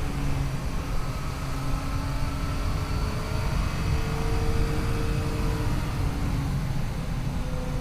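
Yamaha FJ-09's 847 cc inline three-cylinder engine running at a fairly steady cruising speed, its pitch drifting slightly up and down, under a heavy rush of wind noise.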